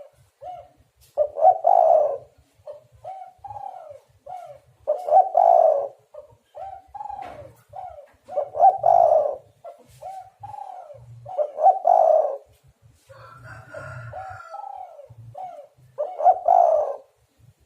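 Spotted dove cooing: repeated phrases of short soft coos, each capped by a louder, longer coo about every three to four seconds.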